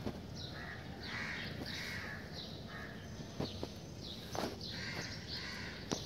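Birds calling outdoors, short calls repeating over and over. A few sharp clicks stand out, around the middle and again near the end.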